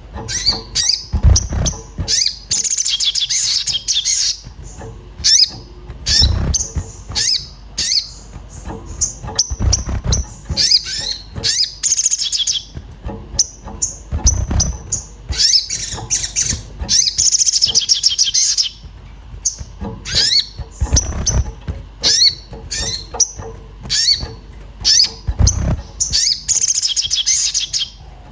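An agitated sogon, the little spiderhunter, calling 'cuit cuit' in rapid bursts of high chirps every few seconds. Several bursts come with low thumps.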